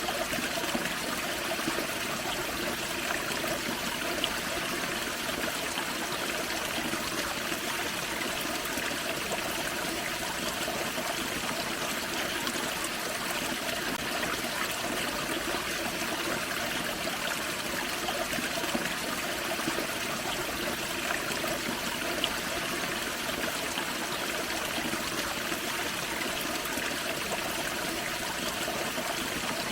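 Forest creek running over a small waterfall: steady splashing and trickling water.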